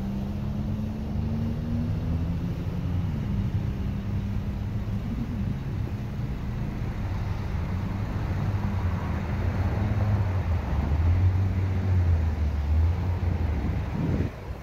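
2011 GMC Acadia's 3.6-litre V6 idling steadily, a low even hum.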